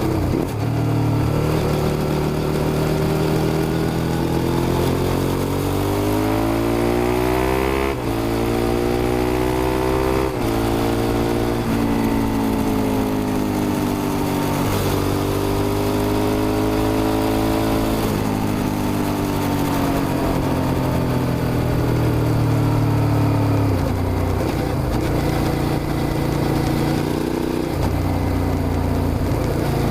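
Suzuki SV650's 90-degree V-twin engine pulling hard under a rider: the pitch climbs, drops sharply at upshifts about 8 and 10 seconds in, then rises and falls with the throttle through the rest of the run.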